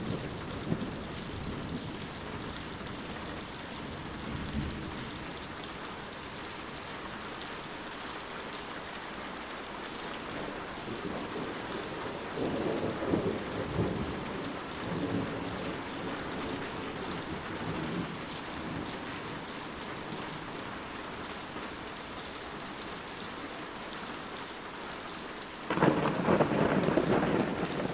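Steady rain falling, with thunder rolling under it in low swells midway and a louder rumble breaking in suddenly near the end.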